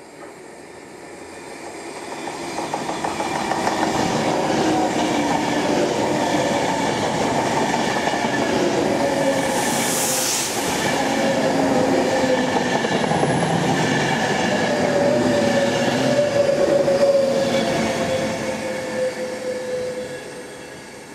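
Class 390 Pendolino electric train passing through a station: wheels on rails and air rush build up as it approaches, hold steady while the coaches go by with a brief loud hiss about halfway, then fade as it draws away. A steady tone runs through the noise and slides slightly lower in pitch near the end.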